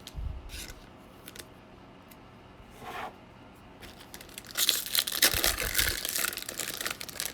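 A trading-card pack's wrapper being torn open and crinkled, loud and dense from about halfway through. A soft knock and a few light handling sounds come before it.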